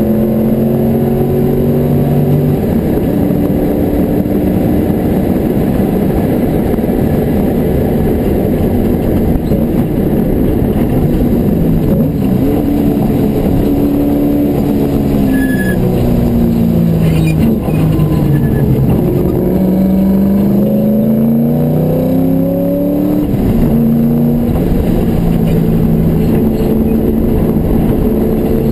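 Porsche 928's V8 engine heard from inside the cabin at racing speed, over steady wind and road noise. It runs steady at high revs, falls in pitch in steps about halfway through as the car slows for a corner, then climbs again under acceleration, with a gear change about two-thirds of the way through.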